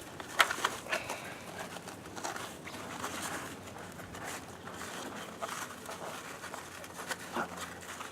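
Wet handling noises of a live octopus clinging to a plastic waterproof case as it is pulled at, with a few sharp clicks in the first second and again near the end.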